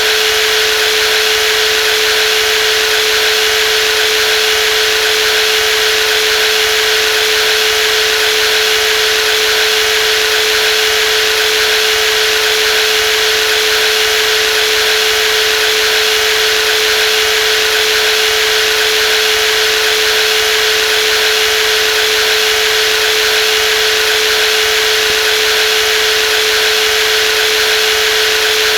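Brushless jigsaw running steadily: one constant tone over an even buzzing hiss, with no change in speed or level.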